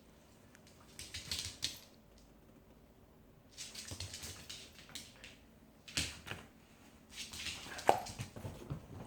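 A small poodle puppy's claws clicking and scrabbling on a hard floor in four short bursts of quick light taps, the sharpest tap near the end.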